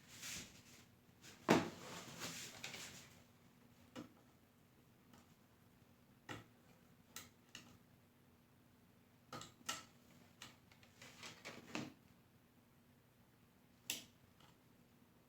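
Scattered light clicks and knocks of objects being handled, with a louder knock about a second and a half in followed by brief rustling, then single ticks every second or two.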